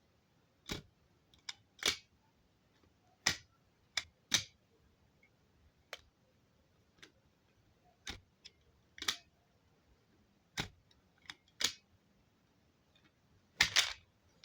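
Plastic toy trucks being handled and knocked about, giving a dozen or so sharp, irregularly spaced clicks and clacks, with a louder quick rattle of several near the end.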